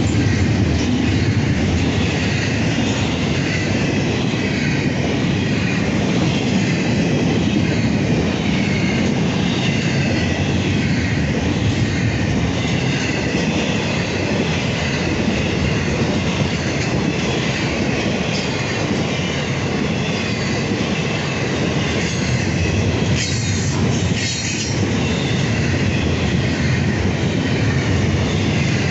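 Train cars rolling past on the rails: a steady rumble of wheels on track with faint, high wheel squeal drifting over it, and a short clatter about four-fifths of the way through.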